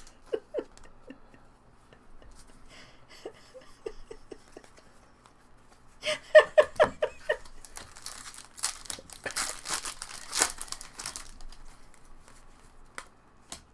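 Foil wrapper of a baseball trading-card pack crinkling and tearing for about three seconds past the middle, just after a short burst of laughter, with light handling clicks of cards.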